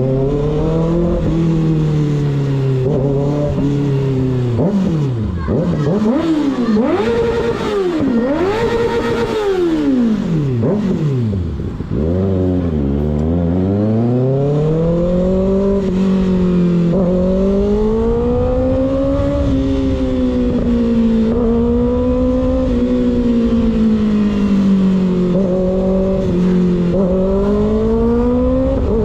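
Motorcycle engine with an un-baffled slip-on exhaust, idling steadily, then blipped in several quick revs that rise and fall, before riding on with the pitch rising and easing through the gears.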